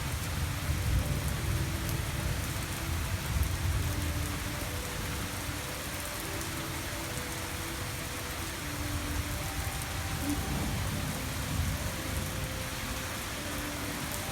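Heavy rain pouring steadily. A low rumble of thunder runs through the first few seconds, then fades.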